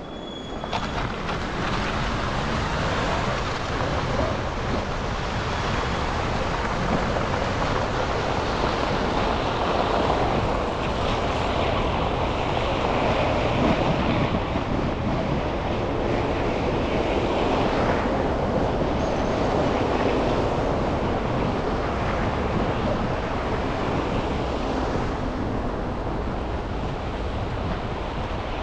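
Steady traffic and road noise from a car driving through city streets after a snowfall: a constant hiss and rumble of tyres and passing vehicles that rises sharply just as it begins.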